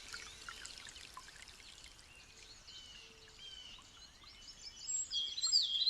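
Rainforest birds singing together, a chorus of chirps and quick whistled notes, thinner and quieter in the middle and busier and louder again near the end.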